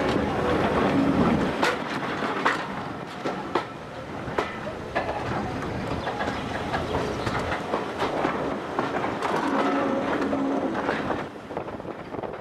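Heritage railway passenger carriage running along the track: a steady rumble with irregular wheel clicks over the rail joints.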